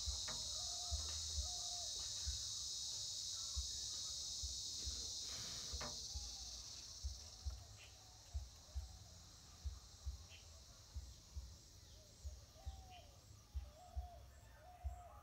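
Steady high-pitched insect chorus, crickets or cicadas, that fades away about halfway through. Short, repeated bird calls run throughout, with scattered low bumps and a few clicks.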